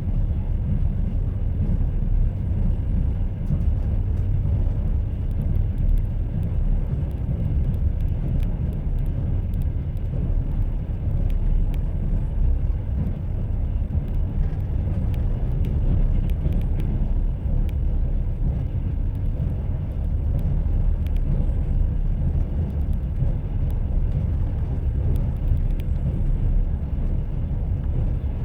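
A train running on rails: a steady low rumble with faint scattered clicks from the wheels.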